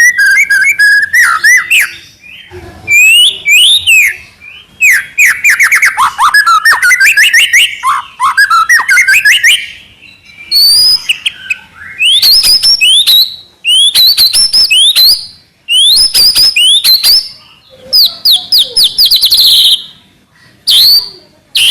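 Young white-rumped shama singing loudly and persistently: varied phrases of clear whistles, rising and falling glides and fast rattling trills, delivered in bursts with short pauses between them.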